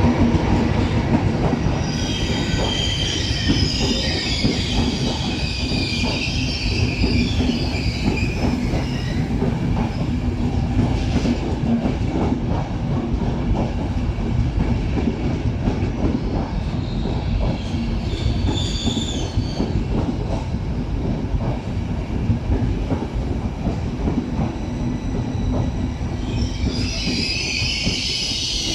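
Train rolling slowly along the station tracks: a steady rumble with a low hum and rapid wheel clicks over rail joints and points. High wheel squeal comes in bursts, for several seconds starting about two seconds in, briefly around eighteen seconds, and again near the end.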